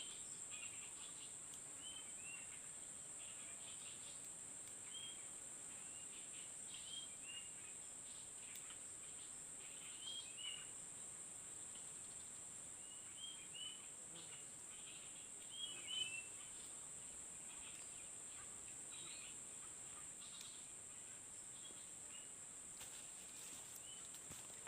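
Rural ambience: a steady high insect drone, like crickets or cicadas, with many short bird chirps scattered through it.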